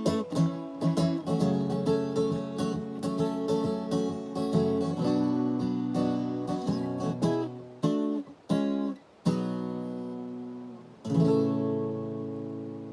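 Acoustic guitar strummed in a steady rhythm, thinning to a few separate strokes around eight seconds in, then one chord struck and left to ring out and fade near the end.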